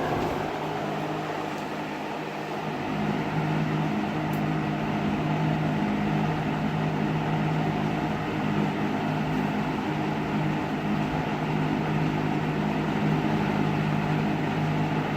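McGraw-Edison box fan with metal blades running steadily: a rush of moving air over a steady low motor hum, which grows stronger about three seconds in.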